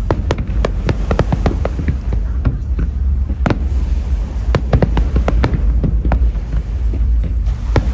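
Aerial fireworks display: a rapid, irregular run of bangs and crackles from bursting shells over a continuous deep rumble.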